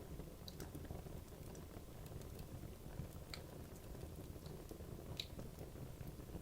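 Wood logs burning in a fireplace: a low steady rumble of the flames with scattered sharp crackles and pops, a few louder pops about three and five seconds in.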